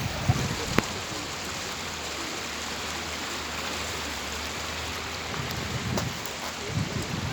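Rain falling, a steady hiss with a few sharp drop hits standing out.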